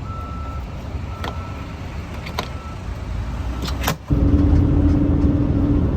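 Car road and engine noise heard from inside the cabin while driving, with a few sharp clicks. About four seconds in it jumps suddenly louder, with a steady hum over the rumble.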